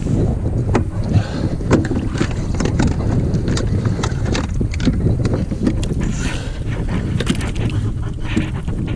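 Wind on the microphone and water slapping against a kayak hull: a steady low rumble with many small knocks and clicks scattered through it.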